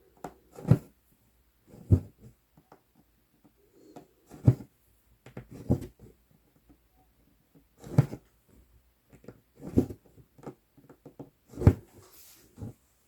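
Cross-stitching on 11-count Aida cloth: a size 24 needle poking through the fabric and thread drawn through, a soft dull tap every one to two seconds, about seven in all.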